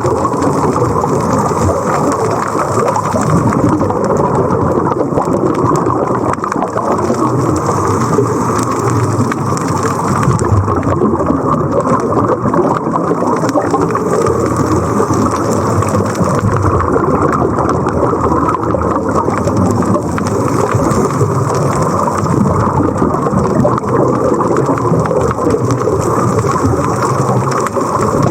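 Steady, muffled rush of water and bubbles as heard underwater. A hissing layer swells and eases about every six seconds, like a diver's scuba breathing.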